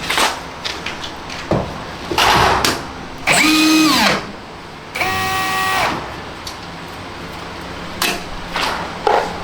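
Power drill-driver spun up twice in short runs of about a second each, its whine rising then dropping away on the first and holding steady on the second, while screws are taken out of a front-loading washing machine's casing. Short knocks and clicks of tools and panels come between the runs.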